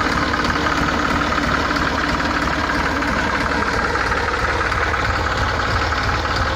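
New Holland 3600 Heritage Edition tractor's diesel engine idling steadily.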